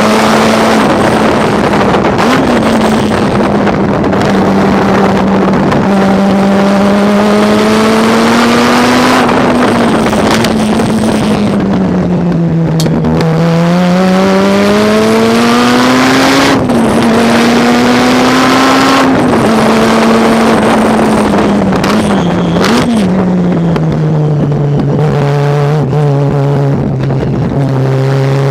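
Mazda RX-7 race car's rotary engine at racing speed. Its note climbs and falls again and again as the car accelerates and slows, with quick jumps in pitch at the gear changes, over a steady rush of wind and tyre noise.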